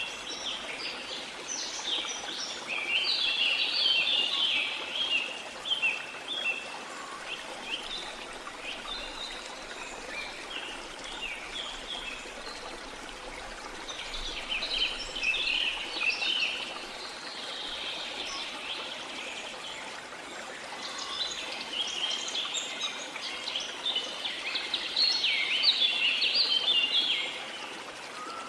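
Steady rush of running water, with birds calling in bouts of quick high chirps that come and go three times over it.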